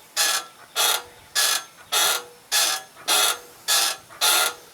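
Playground ride creaking and squeaking in a steady rhythm as a child rides it, about two creaks a second.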